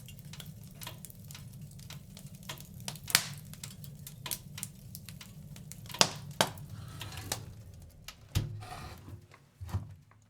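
Wood fire in a fireplace crackling, with irregular sharp pops, several of them loud, over a steady low rumble of the flames. The rumble drops away about eight seconds in, and the crackling fades out at the very end.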